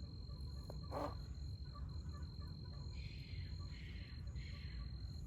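Crickets or similar insects trilling steadily at one high pitch, with faint rhythmic chirps above, over a low background rumble. A short soft knock about a second in and soft scraping or rustling later on come from food being handled.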